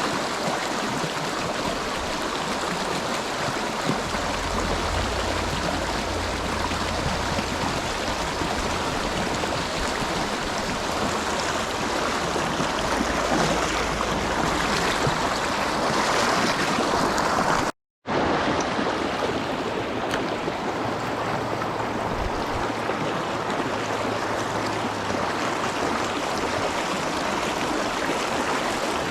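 Steady rush of stream water, the creek running high after a flash flood. The sound drops out for a split second about two-thirds of the way through.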